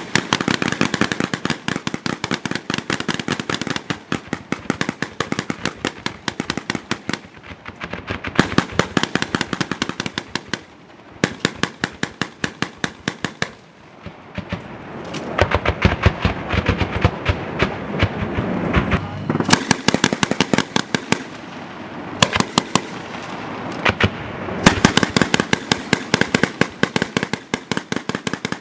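MK 19 40 mm automatic grenade launcher fire and its grenades bursting: a long, crackling run of sharp bangs, several a second, that swells and eases back in waves.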